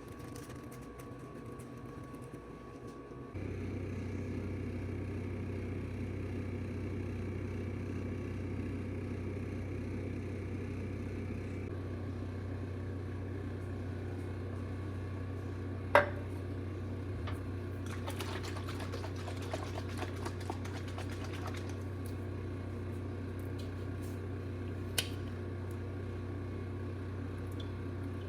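A steady machine hum switches on abruptly about three seconds in and keeps running, with a sharp click about halfway through and a smaller click near the end.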